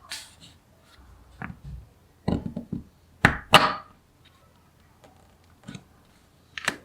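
Small magnetic balls clicking and clattering together in short separate bursts as pieces are snapped into place. The loudest cluster comes about three to four seconds in.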